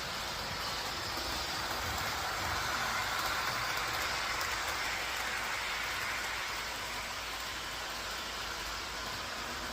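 A train rolling past: a steady rushing noise that swells a few seconds in, then slowly eases.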